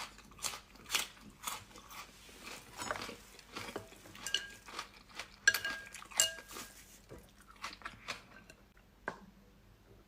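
Eating utensils clinking and knocking against a dish while a meal of blood sausage and noodles is eaten, mixed with chewing. Several of the clinks ring briefly around the middle, and the clatter mostly stops about nine seconds in.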